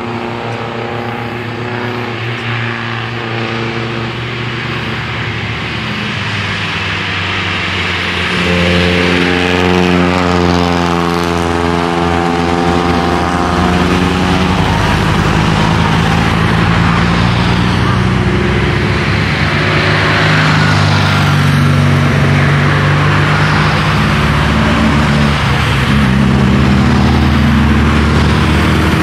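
Engines of classic rally cars passing, slowing and then accelerating up through a corner, the engine note rising and falling as the revs change. The engines grow louder about a third of the way in, with a clearly rising engine note soon after.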